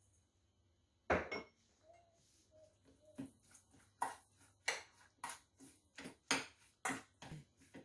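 A utensil knocking and clinking against a bowl as a mayonnaise coleslaw is mixed: a loud clatter about a second in, then a run of regular sharp knocks, roughly one every half to two-thirds of a second, in the second half.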